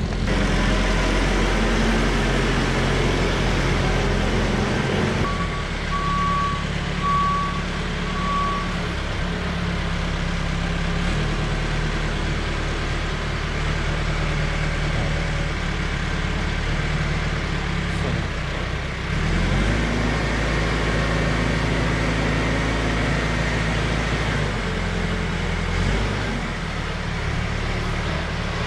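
Tractor engine running steadily, its pitch shifting a few times. A few short beeps about a second apart sound about a fifth of the way in.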